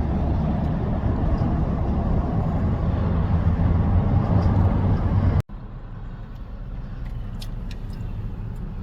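A loud, steady low rumble of a stopped car with its window open, heard from inside the car. A little over halfway through it cuts off abruptly and gives way to a quieter steady hum.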